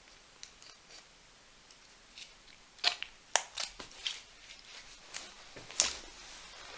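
A foil-laminate MRE cheese spread pouch being worked open: sharp crackles and snaps of the stiff packet being crumpled, torn at and cut, starting about three seconds in, with the loudest snaps near three and six seconds.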